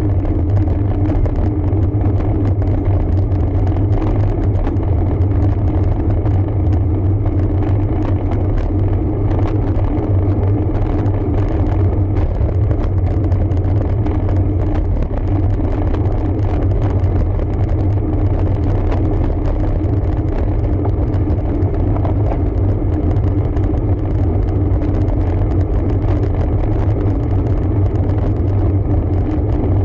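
Steady rumble of an ANCHOR RFX8 road bike being ridden on a climb: tyre and road vibration with frequent small rattles.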